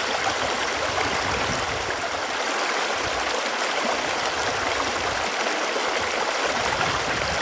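Running water flowing in a steady, even rush.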